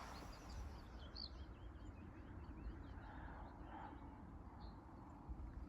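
Faint songbird song: rapid series of short, high chirps, over a low rumble of wind and handling noise.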